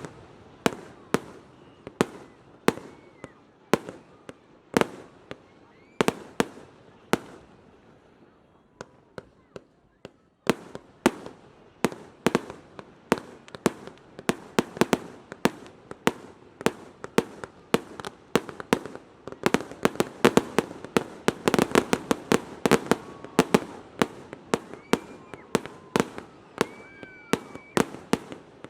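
Fireworks going off in a string of sharp bangs. The bangs are spaced out at first, then from about ten seconds in they come in a dense, rapid barrage that grows loudest past the middle.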